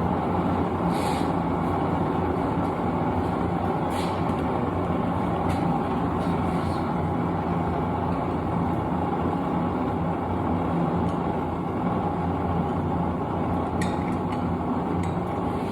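Propane forge burner running steadily: a dense hiss with a low hum underneath, and a few light clicks about a second in, around four seconds and near the end.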